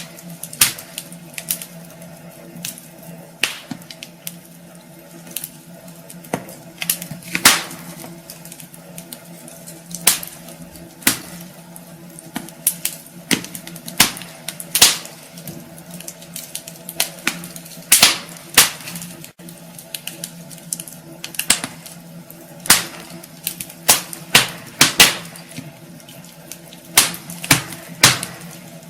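Wood fire burning in a fireplace: logs crackling with irregular sharp pops, some much louder than others, over a steady low hum.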